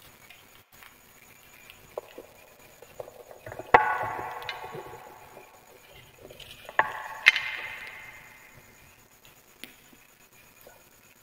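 Wood fire crackling with faint scattered ticks. Three loud sharp cracks come about four, seven and seven and a half seconds in, each trailing off over a second or two.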